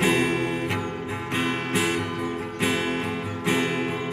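Acoustic guitar strummed in a steady rhythm, a fresh chord struck a little more than once a second, with no voice over it.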